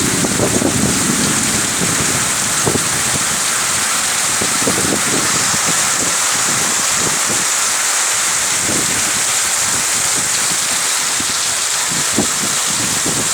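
Heavy rain pouring down steadily, with a continuous hiss and the patter of drops striking nearby surfaces.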